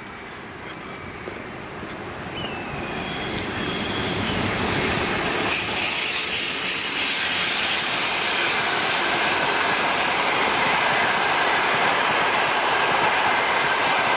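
Passenger train hauled by an electric locomotive passing close by: the noise of wheels on rails swells over the first four seconds, then runs steady and loud, with a few high steady tones over it.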